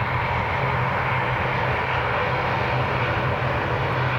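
Airliner engines running steadily: a constant noise with a low hum underneath, with no change in level.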